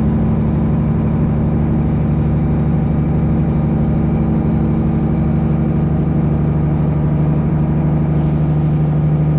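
Detroit Diesel 12.7-litre engine of a semi truck running steadily under way, heard as a constant low drone inside the cab; its pitch settles slightly near the end.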